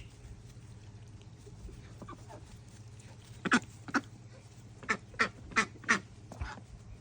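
Domestic ducks quacking: after a few quieter seconds, a run of about six short, loud quacks about halfway through.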